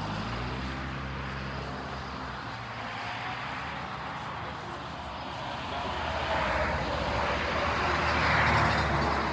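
A car engine running nearby, its note dropping over the first couple of seconds. A vehicle then passes, growing louder to a peak about eight seconds in.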